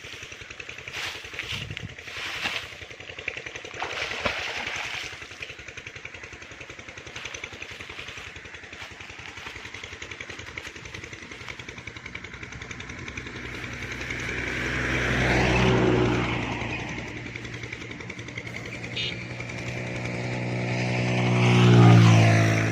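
A small engine, like a motorcycle, passes by twice: its steady hum grows louder and then fades each time, and the second pass, near the end, is the louder. A few short knocks come in the first seconds.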